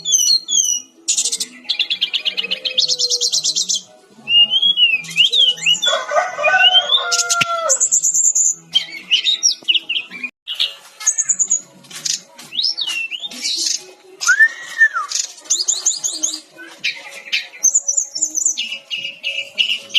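Sikatan-rimba dada-coklat (brown-chested jungle flycatcher) singing a fast, varied song. The song strings together rapid trills, sharp chirps and whistled notes that rise and fall, with short pauses between phrases.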